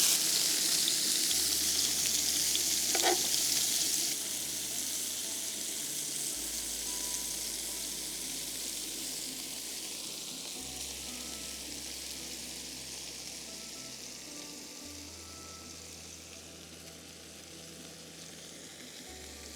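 Steak sizzling in oil on a griddle: a loud hiss for the first few seconds that drops suddenly, then dies down gradually.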